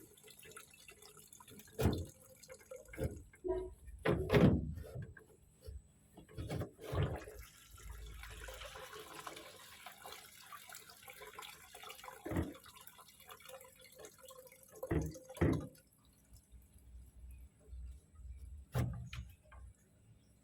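Water dripping and splashing in scattered bursts, with a steady trickle of running water about eight to eleven seconds in.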